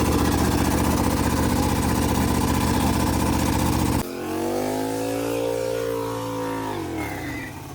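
Car engine running steadily with a rough rumble; about four seconds in the sound changes abruptly to a smoother, quieter engine note that holds and then drops in pitch near the end.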